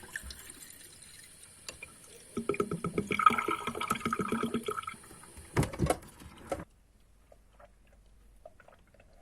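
Water running and splashing at a kitchen sink during washing up, with a busy gurgling stretch in the middle. A low thud follows, and the sound cuts off abruptly about two-thirds of the way in, leaving faint room tone.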